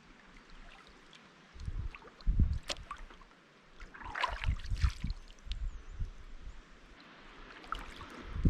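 Kayak paddle strokes: the blade dipping and pulling through lake water with splashes and trickling drips, a stroke every couple of seconds, along with a few low bumps.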